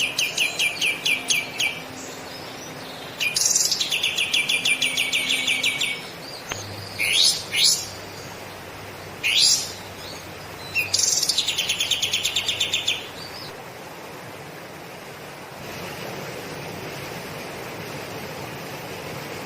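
A bird gives three bursts of very fast, evenly repeated high trilling notes, each two to three seconds long, with two quick rising whistles between the second and third bursts. After the last burst, about two-thirds of the way in, only a steady background hiss remains.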